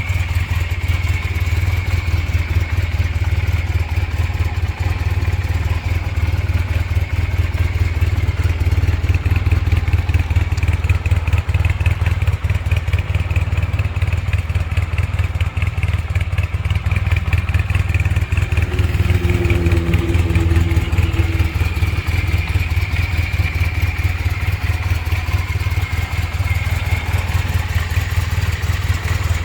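Honda CB400N Hawk III's 395 cc parallel-twin engine idling steadily, a low, even exhaust note with no revving; the exhaust is set up to sound not noisy.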